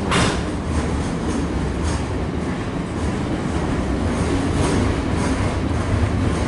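An SCT standard gauge freight train's wagons rolling slowly past: a steady rumble, with wheels clacking over rail joints now and then, the sharpest clack right at the start.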